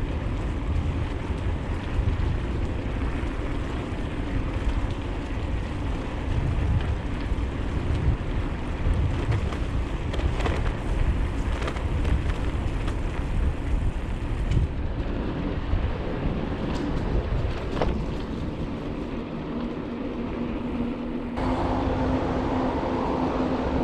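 Wind rumbling on the microphone and tyre noise from a bicycle ridden along a trail, with a few short clicks. Near the end the rumble drops and a steady hum comes in.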